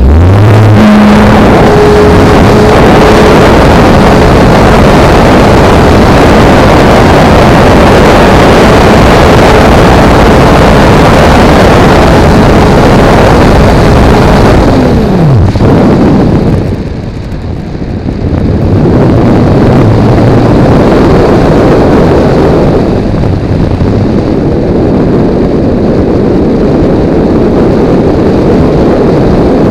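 Electric motor and propeller of a Multiplex Blizzard RC model plane running under power, heard from a camera mounted on the plane amid heavy wind rush over its microphone. About halfway through, the motor's tone drops away steeply as the throttle comes back, and the loud wind rush carries on.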